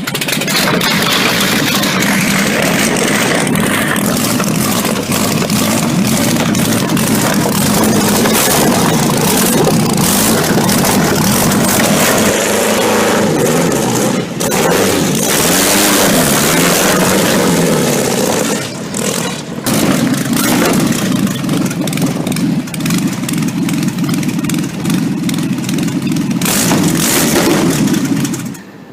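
Napier Lion 24-litre W12 aero engine in the Bluebird land speed record replica running loudly. Its pitch rises and falls with the throttle through the middle, then it settles back to a steady run.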